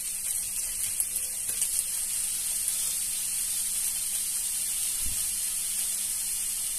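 Chopped garlic, ginger and vegetables sizzling in hot oil in a kadhai: a steady frying hiss with a few crackles about a second in.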